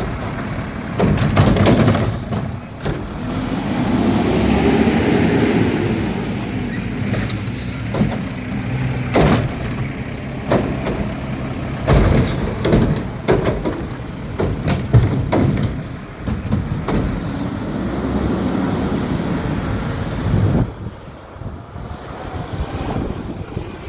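Garbage truck on a recycling collection: the diesel engine running and twice swelling up and back down in pitch, with repeated sharp clanks and clatters throughout.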